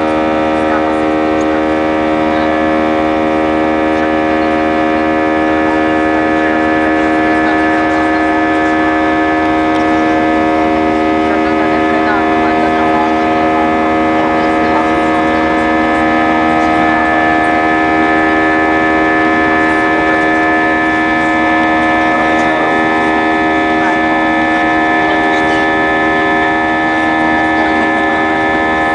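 Airbus A320's jet engines heard from inside the passenger cabin: a steady drone with several steady humming tones laid over a rushing noise.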